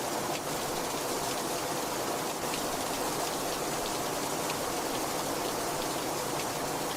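Very heavy rain falling steadily: a dense, even hiss of drops, with single drop ticks scattered through it.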